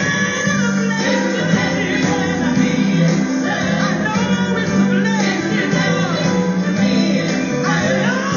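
Gospel song: voices singing a melody over a band with a steady low bass line and a regular drum beat.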